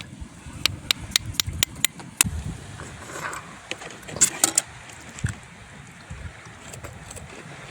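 Sharp clicks and clinks of small hard objects knocking together: a quick run of about seven in the first couple of seconds, then a tight cluster about four seconds in, over a low rumble of wind.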